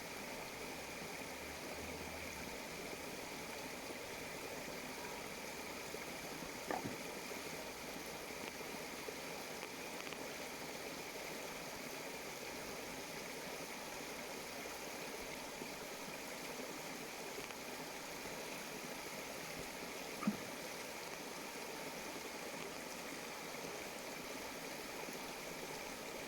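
Water flowing steadily in a stream, an even rushing with no speech. Two brief clicks break through, one about a quarter of the way in and a louder one about three-quarters of the way in.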